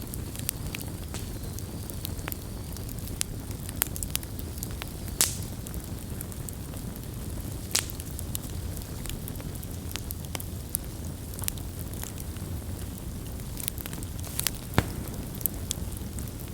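Campfire burning: a steady low rumble of flame with irregular sharp crackles and a few louder pops from the burning wood.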